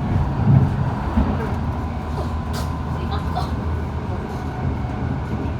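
Steady low rumble of a moving VTA light rail car heard from inside, wheels running on the rails, with a faint steady tone above it.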